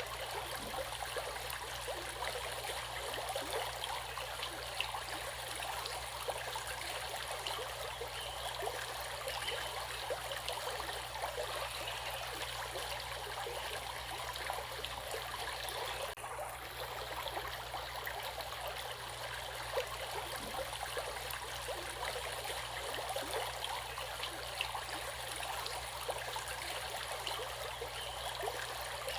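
Running water, a stream's steady rush full of small splashes and gurgles.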